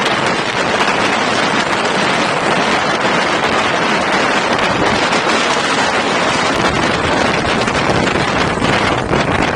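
Loud, steady rushing of wind on the microphone, which drops away suddenly at the very end.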